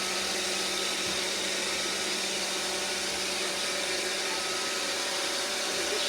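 iRobot Roomba robot vacuum running: a steady hiss from its vacuum motor and brushes, with faint constant whining tones.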